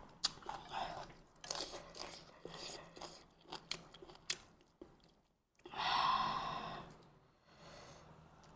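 A person chewing and eating noodle soup close to the microphone: wet mouth noises and small clicks, with a louder rush of noise about six seconds in.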